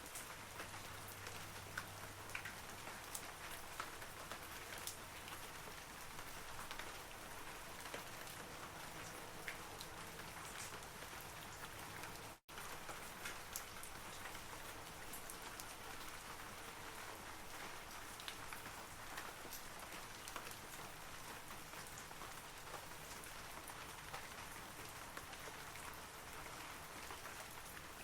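Steady rain falling on forest trees, an even patter with many small drips. The sound cuts out for an instant about twelve seconds in.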